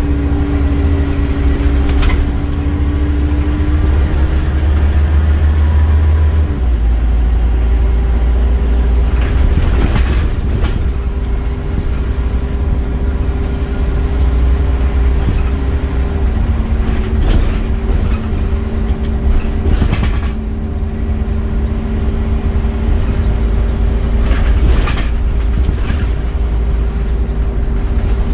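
Scania Omnicity bus underway, its engine rumbling steadily with a whine whose pitch steps about six seconds in and again about sixteen seconds in. Short knocks and rattles come every few seconds.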